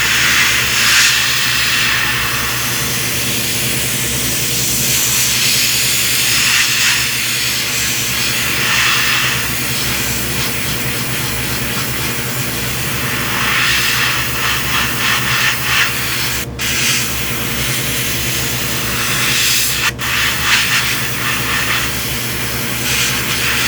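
Airbrush spraying paint: a steady hiss of air and paint that cuts out for an instant twice, about 16 and 20 seconds in, as the trigger is let go.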